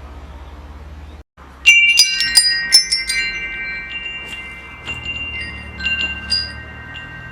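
Metal wind chime ringing in the wind: a low steady rumble, a brief dropout, then a quick cluster of strikes about a second and a half in whose tones ring on, followed by a few scattered strikes.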